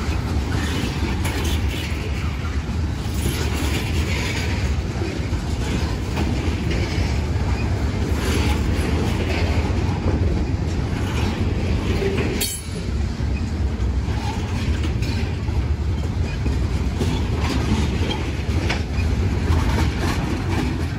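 Freight train of loaded tank cars rolling past at close range: a steady rumble of steel wheels on rail, with the clickety-clack of trucks passing over rail joints.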